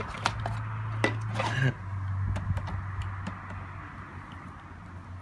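Hard clicks and knocks of a Roomba 780 robot vacuum's plastic parts being handled during a cleaning: a few sharp ones in the first two seconds, then lighter ticks. A steady low hum runs underneath.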